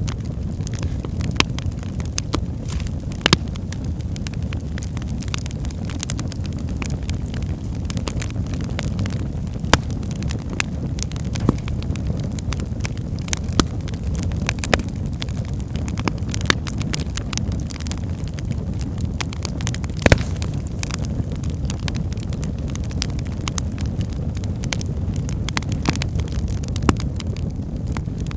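Wood fire burning in a fireplace: a steady low rumble of flames with frequent sharp crackles and pops from the logs, a few louder pops standing out.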